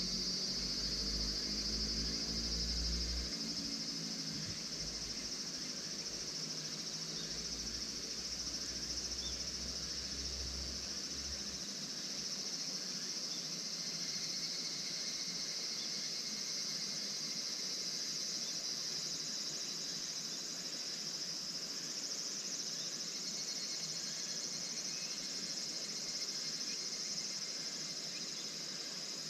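Crickets chirring steadily in a dense high band. A low rumble, like a distant vehicle, fades out about twelve seconds in.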